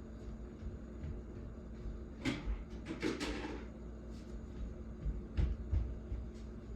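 A few short knocks and clicks, like something being handled or a latch or door being worked. There is a single knock about two seconds in, a cluster of them around three seconds, and a couple more near the end, over a low steady rumble.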